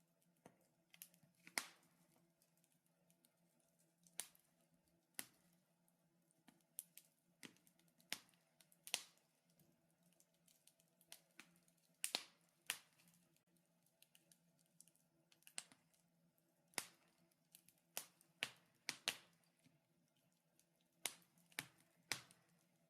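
Wood fire in a fireplace crackling: irregular sharp pops and snaps, some louder than others, over a faint steady hum.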